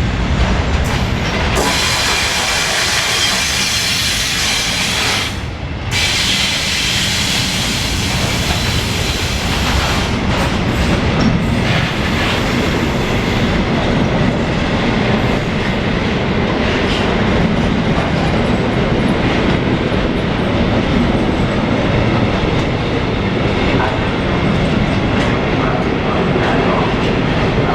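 Freight train passing on the tracks, its wagons rolling by in a steady, loud run of wheel-and-rail noise.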